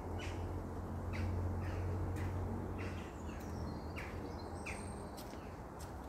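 Small birds chirping in the trees: short, high chirps that sweep downward, repeated irregularly. Beneath them a steady low background hum fades about halfway through.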